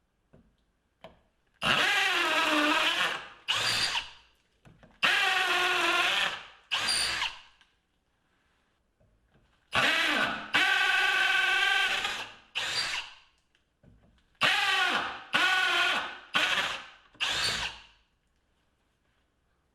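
Milwaukee M18 2604 cordless hammer drill running unloaded in a series of about eleven short trigger pulls. Each is a whine that spins up at once and winds down when the trigger is let go.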